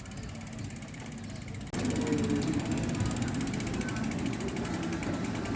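Bicycle freewheel ratchet ticking rapidly and evenly as the bike coasts. A louder low rumble comes in abruptly under two seconds in.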